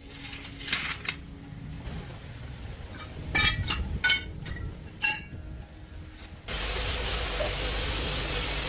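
Steel parts and tools clinking and ringing as they are struck or set down, a few single hits and then a quick cluster. About two-thirds of the way in, a steady, loud mechanical noise starts abruptly.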